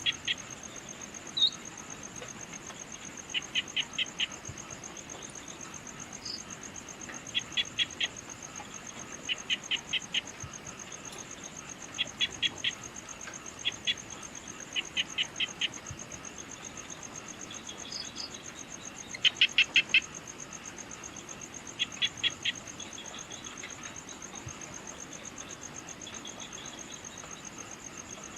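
Evening nature ambience: a steady high insect trill, over which a call of four or five quick notes repeats about every two seconds, with a few single high chirps in between.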